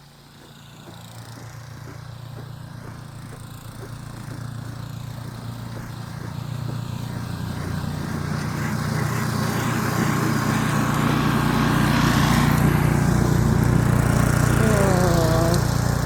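A motor vehicle's engine drawing closer, rising from faint to loud over about twelve seconds and then running steadily, with a short wavering whine near the end.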